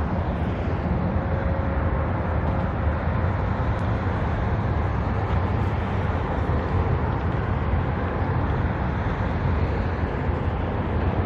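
Steady rumble of passing road traffic, heaviest in the low end, at an even level.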